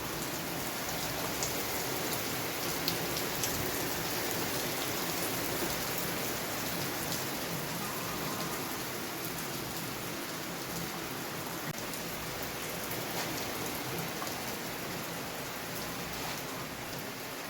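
Heavy downpour of rain: a steady, dense hiss with scattered sharp ticks of drops striking.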